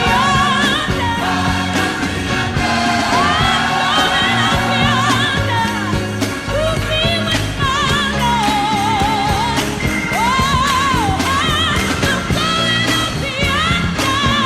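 A song with a solo singer using heavy vibrato over an instrumental backing with steady held bass notes.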